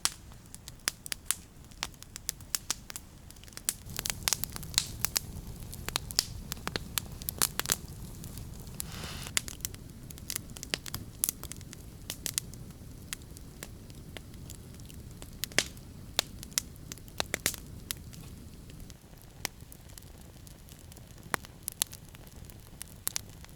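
Campfire crackling, with burning wood snapping and popping in sharp, irregular cracks over a low steady rush.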